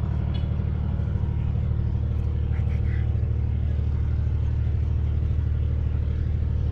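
Large diesel engine of the ferry running with a steady low drone.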